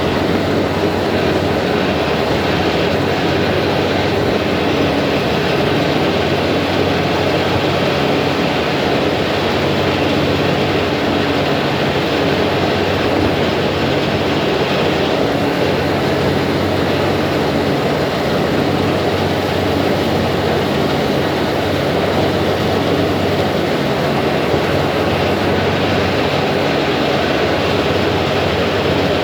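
Thames Clipper river-bus catamaran under way: a loud, steady engine drone mixed with rushing water and wind.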